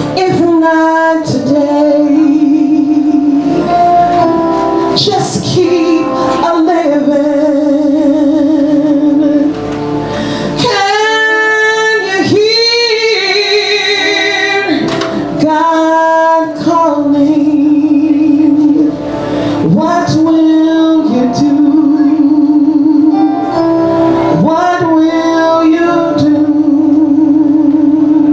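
A woman singing long held notes with vibrato over musical accompaniment.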